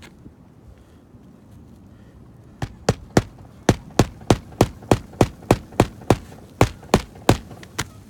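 Hand hammer driving roofing nails into an asphalt shingle: about sixteen sharp, evenly spaced strikes, roughly three a second, starting a couple of seconds in.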